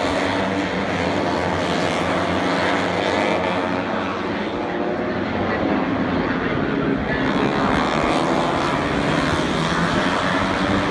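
Loud, steady engine noise, with several pitches wavering up and down throughout.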